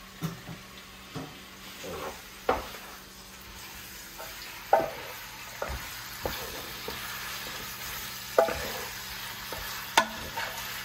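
Raw chicken pieces and onion sizzling in a hot rectangular Copper Chef pan as a wooden spoon stirs them. The spoon knocks against the pan a few times, and the sizzle grows a little louder about four seconds in.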